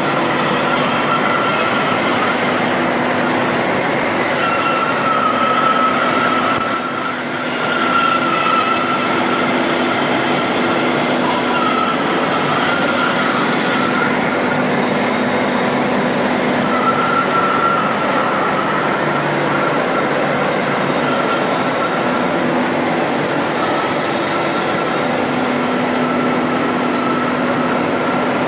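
TOS SU 1000 heavy universal lathe running: its spindle and gear train turn with a loud, steady mechanical noise, a lower hum and a high whine that wavers in pitch. The noise dips briefly about a quarter of the way in.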